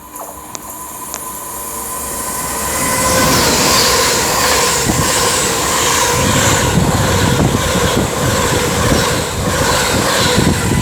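Avanti West Coast Class 390 Pendolino electric train approaching and passing at speed. It grows louder over the first three seconds, then holds as a steady rush of wheels on rail with a regular beat of wheels over the track.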